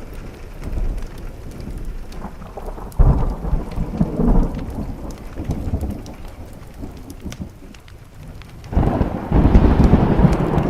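Thunder rumbling over steady rain: one roll swells about three seconds in and fades, and a louder, longer roll begins near the end.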